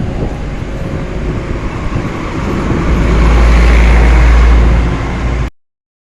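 Wind buffeting the microphone with a heavy low rumble, swelling about three seconds in; the sound cuts off abruptly near the end.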